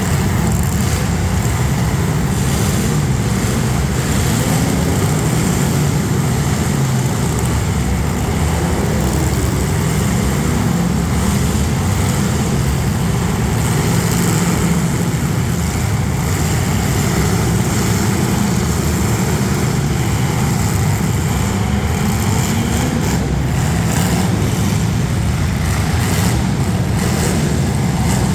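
Several demolition derby street stock cars' engines running at once in a loud, steady din.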